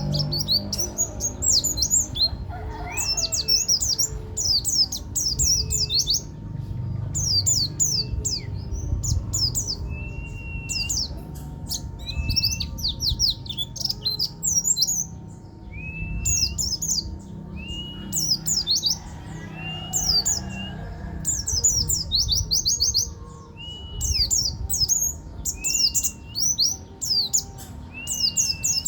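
A buktoni songbird singing continuously in rapid, high twittering trill phrases, broken by short pauses. A clear whistled note that rises and then drops comes about every two seconds.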